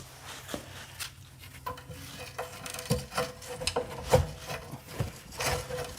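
Exhaust bolt under the car squeaking as it is turned with a wrench: a rubbing squeal with repeated short strokes that starts about a second and a half in.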